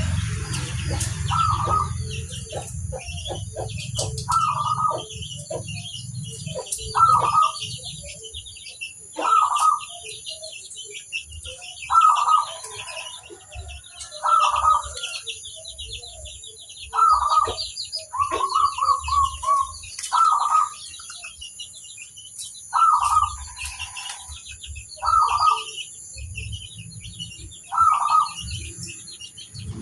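Zebra doves (perkutut) cooing: short phrases of quick ringing coos repeated every two to three seconds, over continuous high chirping of small birds.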